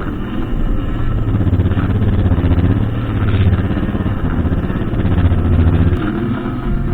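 Brushcutter engine running continuously, its note swelling and easing a few times as the load and throttle change.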